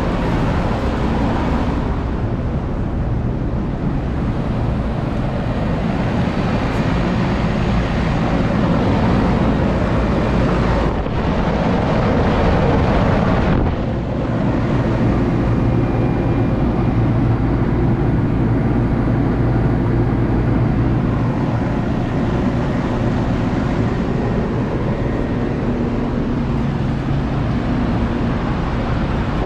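Steady road and engine noise inside a moving vehicle: an even rumble with a low drone, unbroken by any sharp event.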